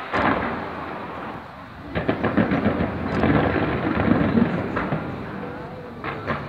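Fireworks going off in quick succession: a bang just after the start, then from about two seconds in a fast, continuous string of pops and crackles over a low rumble.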